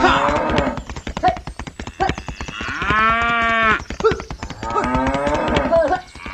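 Cattle mooing: a long call about three seconds in and another about two seconds later, over a fast clatter of clicks.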